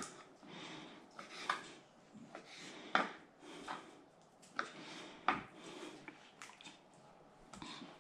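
Kitchen knife cutting pigeon fillets into small pieces on a cutting board: irregular knocks of the blade hitting the board, with quieter cutting sounds between.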